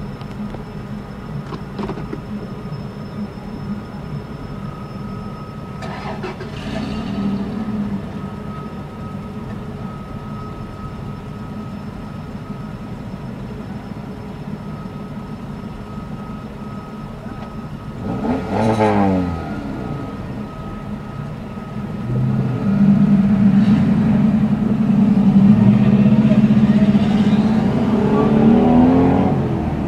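Car engines and road noise heard from inside a car's cabin in slow traffic. A vehicle's engine briefly swells about 18 seconds in, and from about 23 seconds the engines run louder as the traffic pulls away and accelerates.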